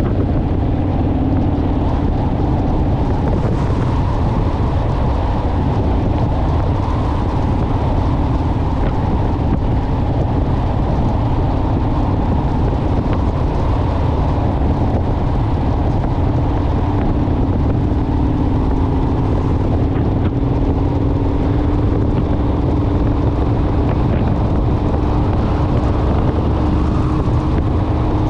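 Honda Rebel motorcycle's parallel-twin engine running at a steady cruise, with wind and road noise. The engine note holds nearly level throughout, drifting only slightly in pitch.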